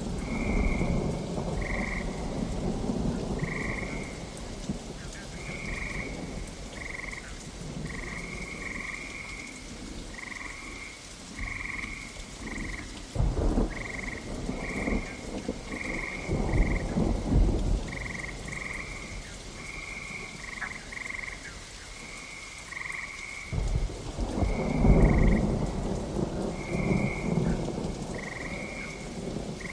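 Steady rain with frogs calling in short repeated croaks about once a second, while thunder rumbles at the start, again about halfway through, and near the end.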